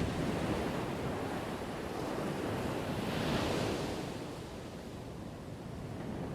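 Ocean surf: a continuous wash of waves, with one wave breaking and hissing up about halfway through before easing back.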